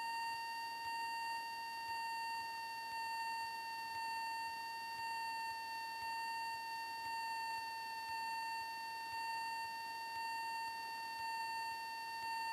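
A steady electronic whine with evenly spaced overtones over a faint hiss, unchanging throughout. It is the kind of electrical noise carried on a light aircraft's intercom audio feed in flight.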